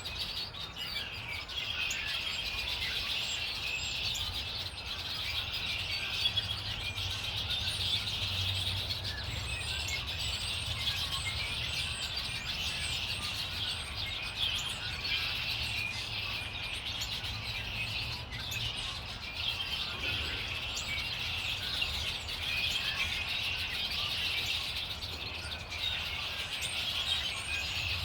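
Many small songbirds chirping and twittering at once in a dense, continuous chorus of short high notes.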